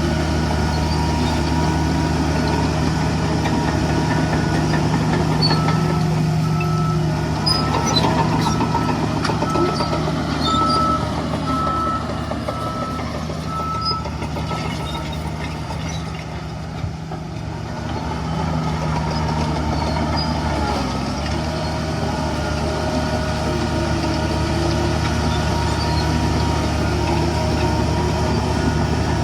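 Engines of heavy earthmoving machines running steadily, with a reversing alarm beeping repeatedly for several seconds in the first half.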